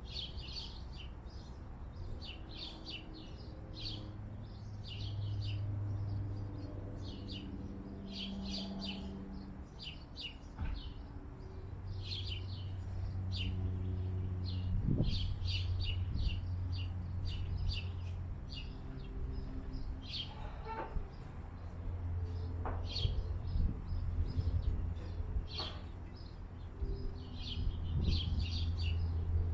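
Small birds chirping: many short, high chirps in quick runs throughout, over a low steady hum that swells and fades several times.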